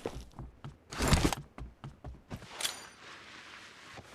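Shooter video game sound effects between gunfights: scattered footsteps and clicks, with a short louder burst about a second in and another, with a faint ringing, a little past halfway.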